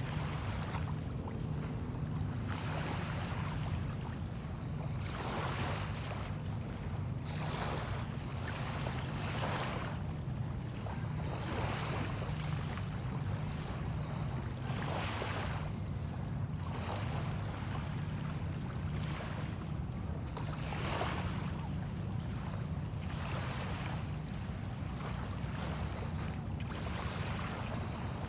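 Small waves lapping and washing onto a sandy bay shore, one wash every two seconds or so, over a steady low rumble.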